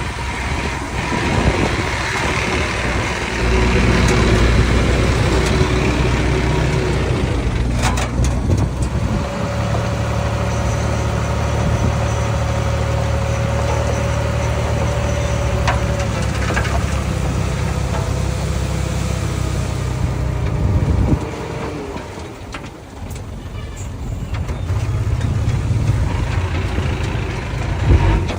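Heavy earthmoving machine's engine running steadily under load. It drops away suddenly about two-thirds of the way through, then builds up again near the end, with a couple of sharp knocks early on.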